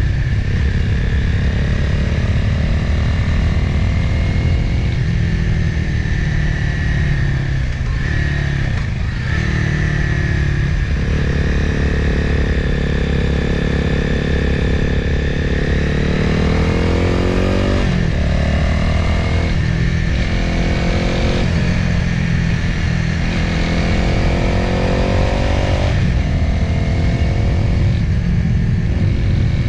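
Motorcycle engine and wind noise heard from an onboard camera while riding downhill. The engine note changes pitch through gear changes: it holds steady for a while, rises briefly about two-thirds of the way through, then drops.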